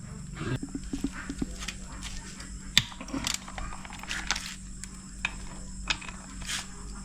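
Irregular clicks and knocks of hand tools and engine parts being handled during engine disassembly, with one sharper knock a little under three seconds in, over a steady low hum.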